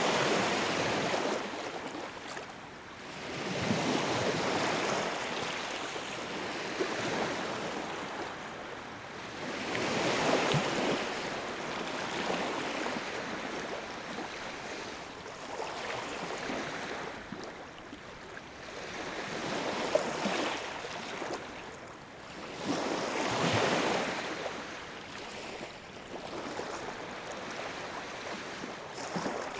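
Sea waves breaking and washing on the shore, the surf swelling and falling away again every four to six seconds.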